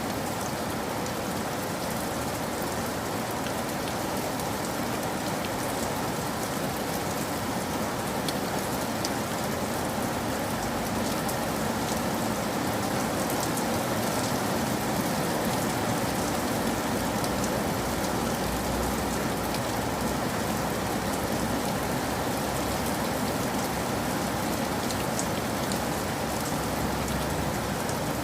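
Steady rain falling, an even hiss with scattered ticks of individual drops. A low rumble joins underneath about ten seconds in.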